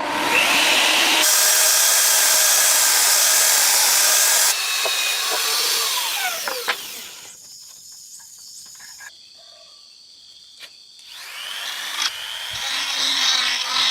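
An electric power tool runs loudly, then spins down with a falling whine about five seconds in. After a pause it spins back up with a rising whine around eleven seconds and runs loudly again.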